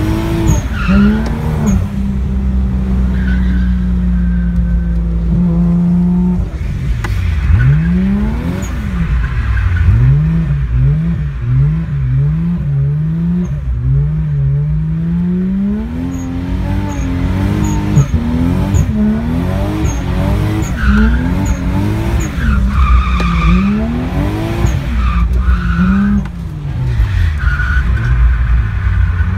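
Toyota 1JZ straight-six on a 3-inch straight pipe, heard from inside the car while drifting: the revs hold steady for a few seconds, then rise and fall quickly again and again with the throttle. Tyres squeal several times in the second half.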